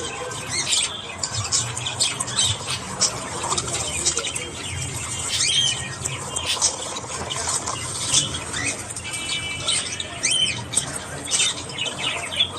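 A group of budgerigars chattering: many short chirps, warbles and sharp squawks overlapping in quick succession, with a few quick up-and-down pitch sweeps.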